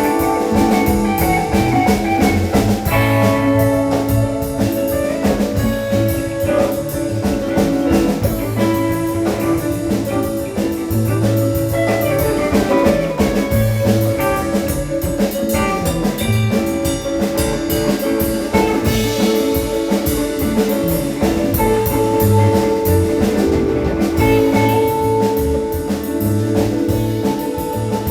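A live band playing an instrumental groove, with electric guitar, bass and drum kit.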